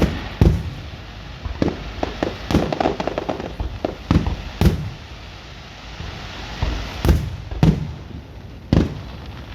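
Fireworks going off: a string of sharp booms, roughly one every second, some landing in close pairs, with a patch of rapid crackling about two to three seconds in.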